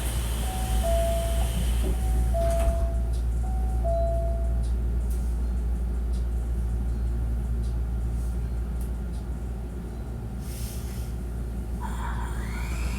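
Door chime of a Hankyu 1300 series train: two alternating notes repeating for the first four seconds or so, over the car's steady low hum. Near the end comes a short whine that rises and falls.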